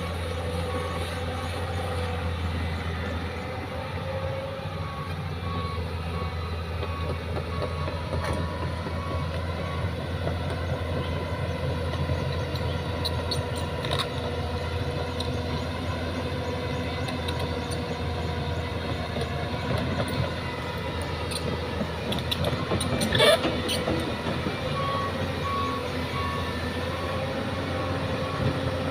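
Heavy diesel machinery running steadily, with a fast pulsing reversing-type beep near the start and again near the end, and a brief metallic clatter a little past the twenty-second mark.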